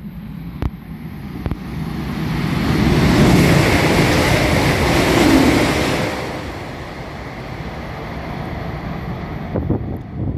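ICE high-speed train going by, a loud rushing noise that swells to its loudest a few seconds in and then eases to a steadier, lower rumble, with a few sharp clicks.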